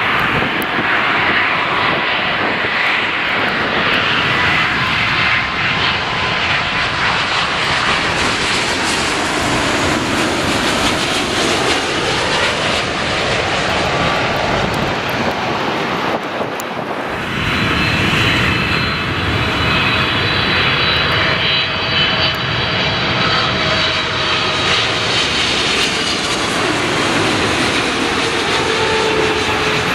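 Jet airliner engines, loud and steady, as the aircraft pass close by. About 17 seconds in the sound changes abruptly to a second aircraft, with a whining tone over the engine noise.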